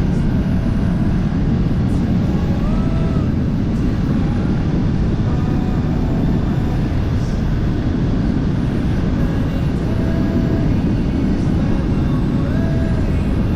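Onboard riding noise from a BMW F850 GS motorcycle under way: heavy steady wind rush over the microphone with the engine running beneath it.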